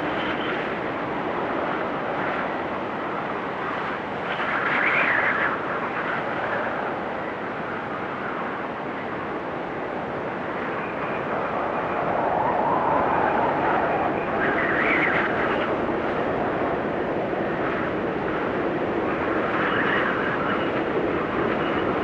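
Snowstorm wind blowing in a steady rush, with gusts swelling every few seconds and a faint whistle at times.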